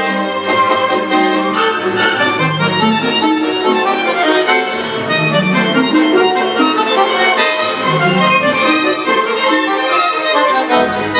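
Solo accordion playing a busy passage of many quickly changing notes in a concerto, with low bass notes coming in near the end.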